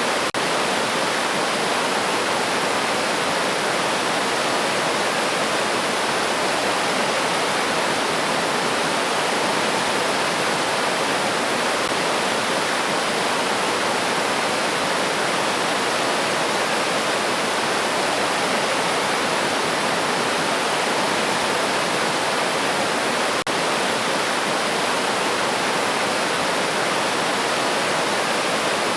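River water rushing and splashing over rocks in a steady, even wash of noise.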